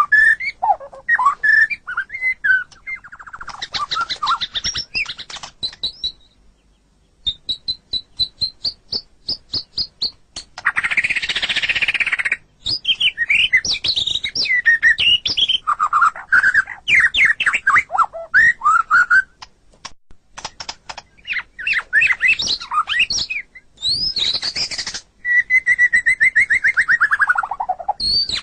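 White-rumped shama (murai batu) singing a long, varied song of clear whistles and fast repeated trills, with a harsh rasping burst about ten seconds in and a long falling trill near the end.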